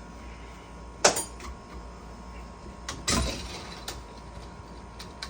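Workshop handling noises while a motorcycle front fork is being put back together: a sharp knock about a second in, then a short sliding scrape a little after three seconds, over a steady faint hum.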